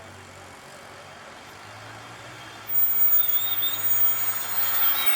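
Heavy road vehicle in city traffic: a low engine drone, then about three seconds in a sudden loud hiss with a high wavering squeal.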